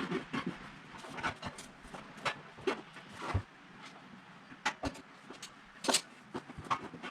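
Rubber inner tube being worked by hand into a tractor tire: irregular scuffing and rubbing, with a few sharp knocks or clicks, the loudest about six seconds in.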